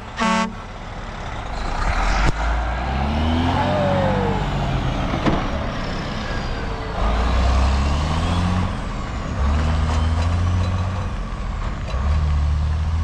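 Heavy truck's engine pulling away and accelerating, its pitch climbing and dropping back several times as it shifts up through the gears. A short horn toot sounds right at the start.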